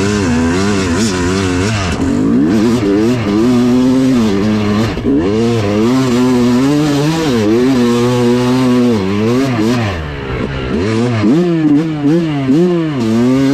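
Yamaha YZ250 two-stroke dirt bike engine being ridden, its pitch rising and falling over and over as the throttle is worked. The revs go choppy and uneven near the end.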